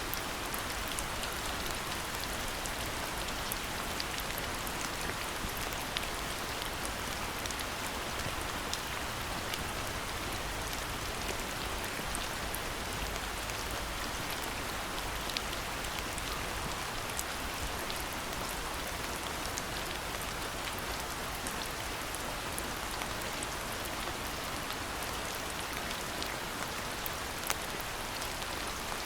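Steady rain falling, with many small, sharp drop ticks scattered over an even hiss.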